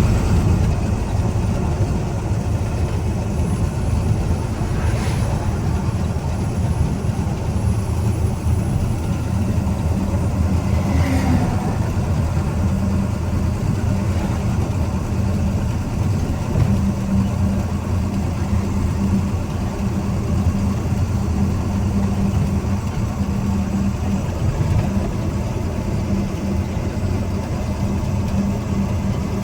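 Truck engine running steadily under way on a highway, a continuous low drone with road noise.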